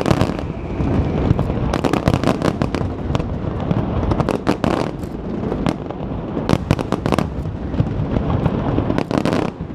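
Aerial fireworks going off: a rapid, uneven string of sharp bangs and cracks, some in quick clusters, over a continuous rumble of reports.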